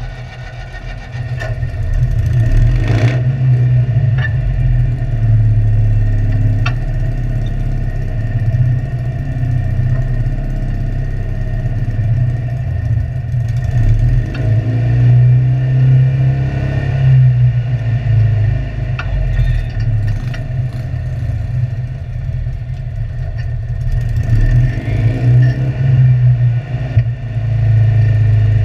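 Citroën 2CV cross car's air-cooled flat-twin engine running while the car stands still, heard from inside the cabin. The revs rise and fall, and it gets louder about two seconds in.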